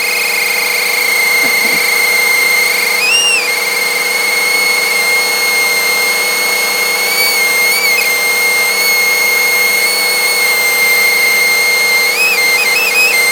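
Vacuum cleaner running with a small piece of paper caught at its suction, making a steady high-pitched whistle over the motor's hum. The whistle briefly bends upward in pitch about three seconds in, around eight seconds, and in a quick flutter of several jumps near the end.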